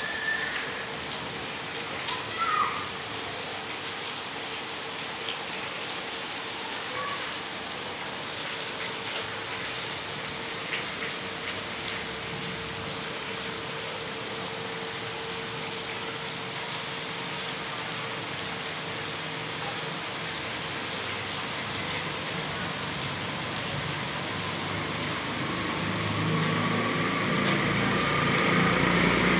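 Steady rain falling on wet brick paving and tree leaves, an even hiss. Near the end a motor vehicle's engine grows louder and rises in pitch over the rain.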